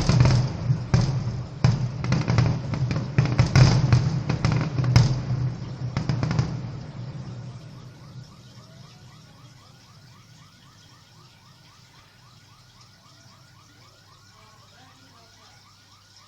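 Fireworks salute bursting in a rapid volley of loud bangs and crackles, dying away about seven seconds in. A car alarm then sounds on its own with a fast, evenly repeating warble, likely set off by the blasts.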